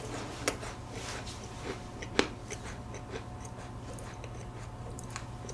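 A person chewing a bite of decorated cookie close to the microphone: soft crunching with two sharper cracks, the louder one about two seconds in.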